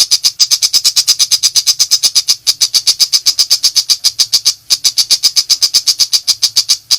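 Long-tailed shrike (pentet) calling in a rapid, even run of short high notes, about seven a second, with two brief breaks. It stops abruptly at the end.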